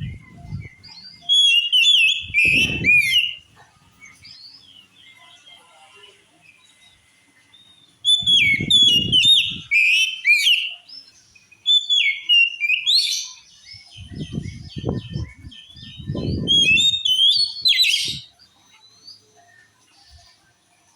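Oriental magpie-robin (kacer) singing: loud bouts of varied, rapidly gliding whistled phrases and trills, with quieter notes between the bouts. Several bursts of low rumbling noise come in alongside some of the bouts.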